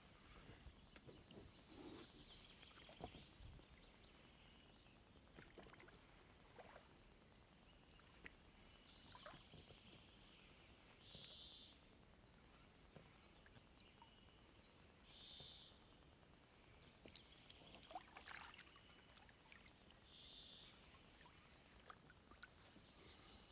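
Near silence on the open water, with faint short high-pitched calls repeating every four to five seconds and a few faint knocks.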